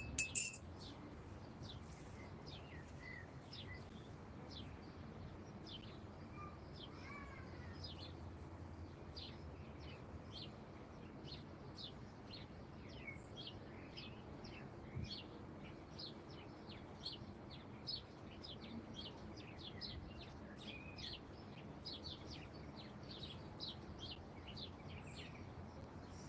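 Small songbirds chirping: short, high, downward-slurred chirps, sparse at first and then coming two or three a second, over a steady low background hum.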